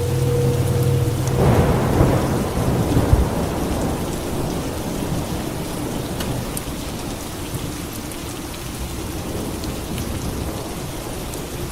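Steady rain with a thunderclap breaking about a second and a half in, rumbling for a couple of seconds before fading back under the rain.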